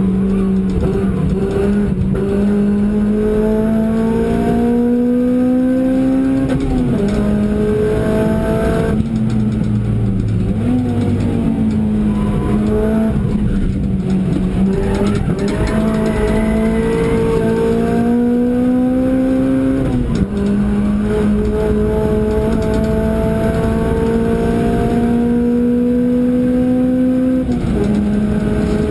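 Car engine under hard acceleration, heard from inside the cabin on a circuit lap. The note climbs steadily through each gear and drops sharply at three upshifts, and once in the middle it eases off and dips before pulling up again through a corner.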